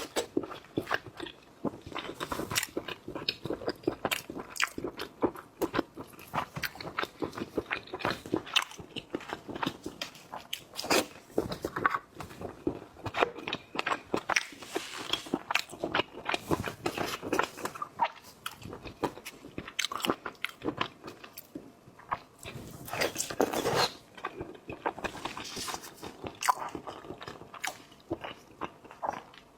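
Eating shellfish: shells cracking and crunching, with biting and wet chewing sounds in a dense, irregular run of sharp clicks and crackles.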